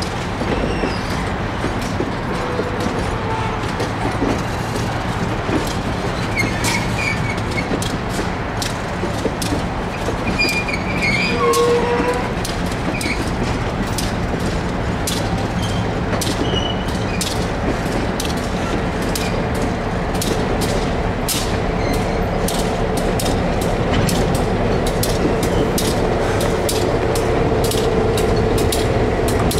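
Passenger train heard from inside a moving coach: a steady rumble of the running train, with the wheels clicking over rail joints in quick runs, more often in the second half, and growing a little louder toward the end.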